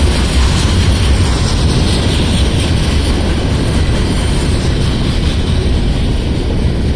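Loaded rock-train hopper cars rolling past on the rails, a loud steady rumble.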